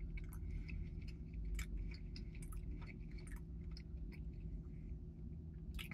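Close chewing of gummy fruit snacks: soft, irregular wet mouth clicks over a steady low hum.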